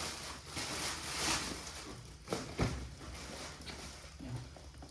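Rustling and handling of packaging, with a couple of sharp clicks or knocks about two and a half seconds in.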